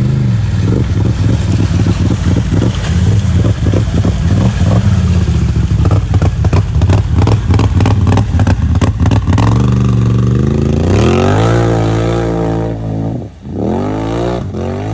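Can-Am Outlander XMR 850 ATV engine running hard under load while stuck, with a rapid clattering over it for the first nine seconds or so. It then revs up with rising pitch, drops briefly near the end, and revs up again.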